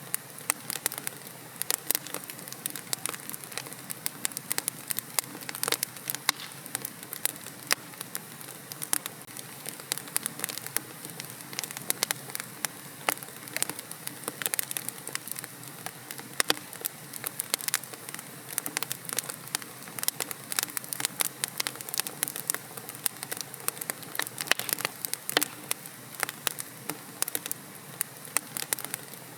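Wood fire in a fireplace crackling: dense, irregular sharp pops and snaps over a steady hiss of burning logs.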